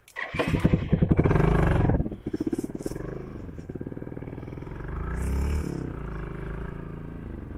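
Motorcycle engine starting about a third of a second in and running loudly with high revs for a couple of seconds, then running at lower revs, its pitch rising and falling a little as the bike rides off.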